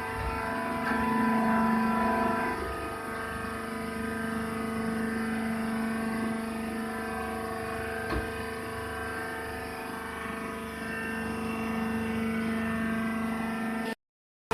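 Cotton seed shell baling machine running with a steady mechanical hum, with one brief tick about eight seconds in.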